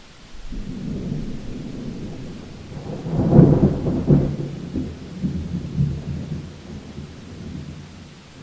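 Thunder rumbling in a rainstorm: a low roll builds to a loud clap about three seconds in, then rolls away over the next few seconds, with rain falling underneath.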